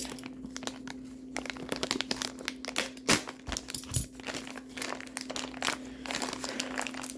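Plastic bag of kinetic sand crinkling as it is handled and cut open with scissors: a dense run of crackles, with two louder knocks about three and four seconds in.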